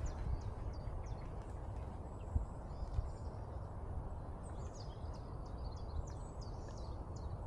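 Small birds calling in many short, high chirps, busiest in the second half, over a steady low outdoor rumble, with a couple of soft thuds.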